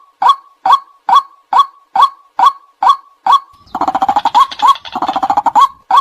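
White-breasted waterhen calling: one monotonous note repeated about two and a half times a second. About 4 s in, the notes give way for about two seconds to a denser, rapid, rough croaking, and then the regular notes resume.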